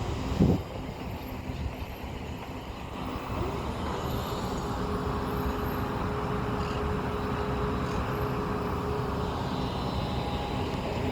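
Steady vehicle hum with a low, even drone, and one short thump about half a second in.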